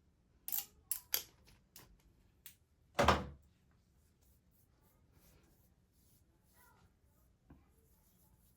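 Short clicks and light knocks of small containers being handled during a skincare routine, followed by one much louder thunk about three seconds in, then a few faint knocks.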